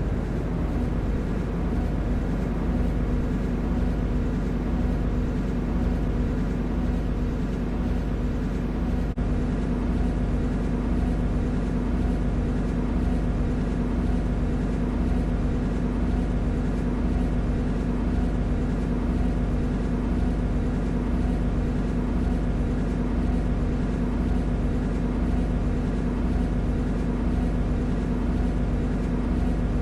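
MTR C-Train electric multiple unit running at steady speed: an even rumble of wheels on track with a steady hum from the traction motors.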